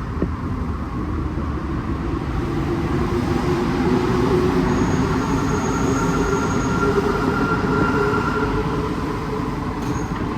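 Inside an Alstom NS-16 metro car standing at a station: the train's equipment gives a steady hum, with a faint whine that comes in about three seconds in and fades near the end.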